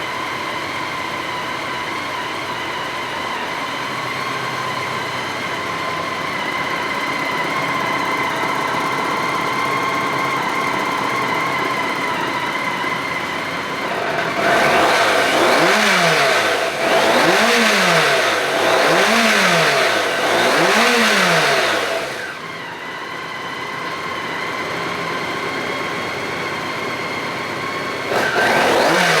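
2003 BMW K1200GT's inline-four engine idling steadily, then revved up and back down several times in a row about halfway through. It settles back to idle, and near the end it starts revving again.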